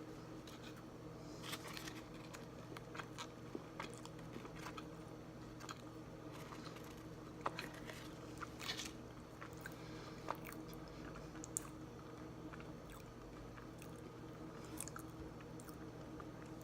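Close-up chewing of a salted caramel protein bar: scattered soft crunches, clicks and wet mouth sounds, a few sharper crunches near the middle, over a steady low hum.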